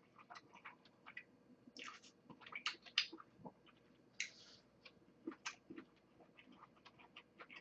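Faint, irregular wet chewing and mouth clicks from someone eating chicken pasta, with a few louder smacks around two to three seconds in.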